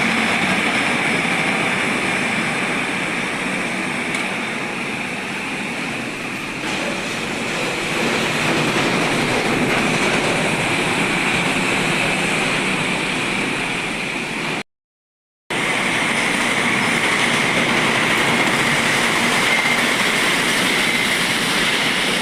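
Container trucks passing on a wet road: a steady roar of engines and tyre hiss. It cuts out completely for under a second about two-thirds of the way through.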